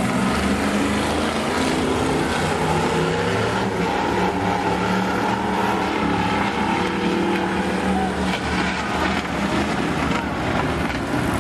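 Several demo race cars running together at speed, a steady blend of engine notes that shift slightly in pitch.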